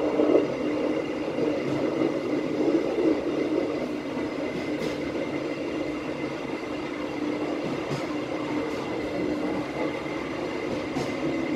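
Passenger train running slowly, a steady hum with a few faint clicks from the wheels on the track.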